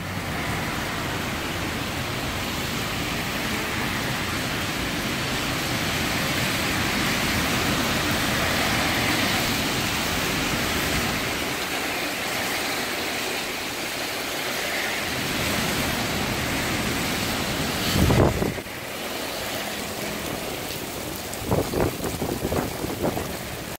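Typhoon wind and rain: a steady rushing noise that swells and eases, with a loud bump about eighteen seconds in and a run of gusty thumps near the end.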